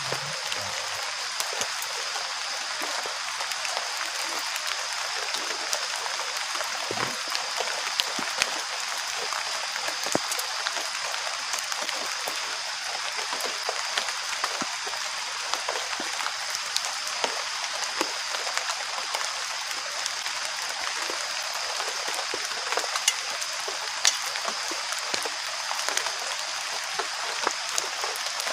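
Steady heavy rain, with scattered louder drop ticks throughout and a constant high hiss.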